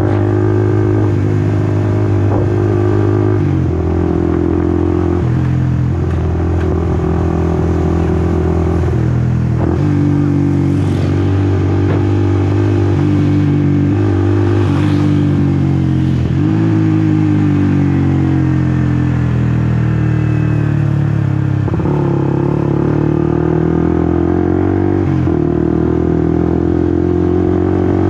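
Honda CBR150R's single-cylinder engine running while riding. Its pitch jumps several times as gears change and the throttle is worked, sinks slowly in the second half, then climbs again.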